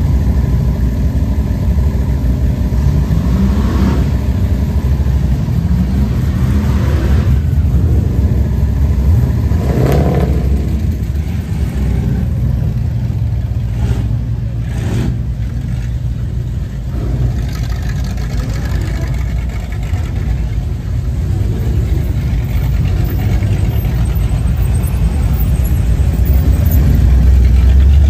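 Car engine running, with the revs rising and falling a few times, loudest near the end.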